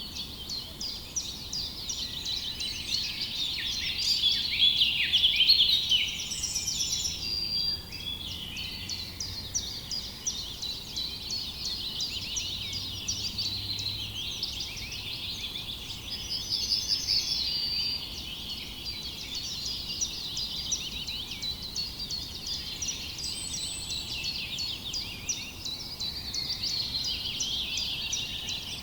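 A chorus of many small songbirds chirping together, a dense, unbroken stream of quick high-pitched chirps, loudest a few seconds in.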